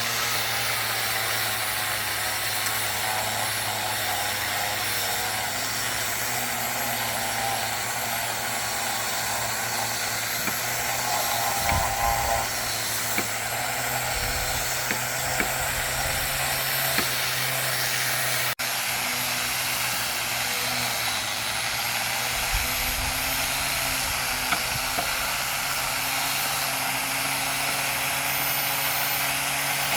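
Handheld electric power tool running continuously while working wood, with a steady motor hum and a few short knocks.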